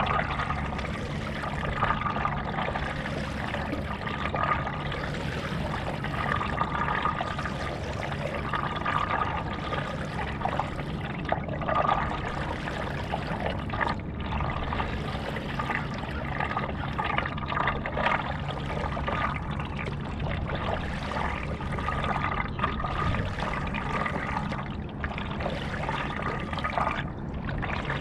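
Paddleboard paddle strokes in lake water, a splash and trickle of water running off the blade about every two seconds, over a faint steady hum.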